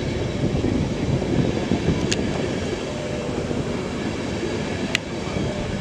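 A train running past a station platform: a steady, noisy rumble, with two short sharp clicks about three seconds apart.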